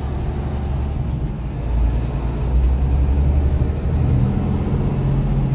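Motor vehicle engine and road noise in slow traffic, a steady low hum that grows heavier about four seconds in.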